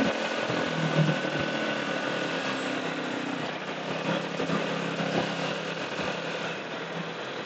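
Motorcycle engine running steadily at low revs, with road and traffic noise.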